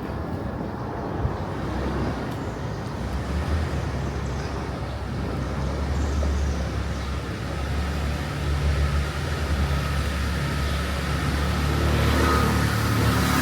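Street traffic: car engines running and tyres passing, a steady low rumble that grows louder near the end.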